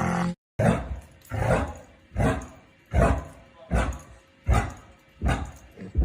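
A dog barking over and over in a steady rhythm, about one deep bark every three-quarters of a second. It starts just after a brief break in the sound, about half a second in.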